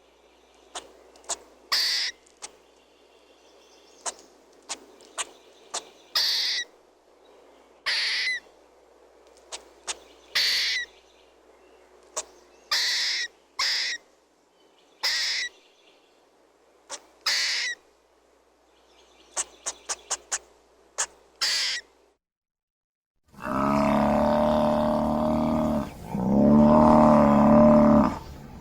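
Harsh, raspy bird calls about half a second long, repeated every one to two seconds, with quick chirps between. Near the end, after a second of silence, a loud, deep, drawn-out sound starts in two long stretches.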